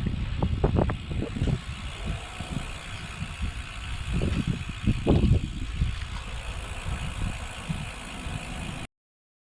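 Wind buffeting the microphone along with road noise from a moving bicycle, a fluctuating low rumble that surges louder around four to five and a half seconds in. It stops abruptly near the end.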